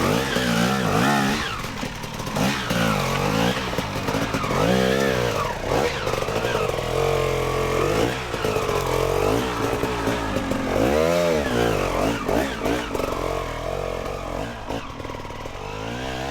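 Two-stroke dirt bike engine revving up and down over and over as the throttle is worked in short bursts, easing off somewhat near the end.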